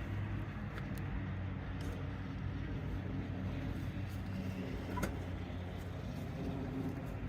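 A vehicle engine idling steadily, with a few faint, sharp clicks.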